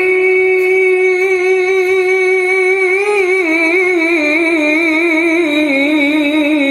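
A male Quran reciter chanting solo in melodic tilawah style: one long note held steady for about three seconds, then a wavering, ornamented run that steps down in pitch.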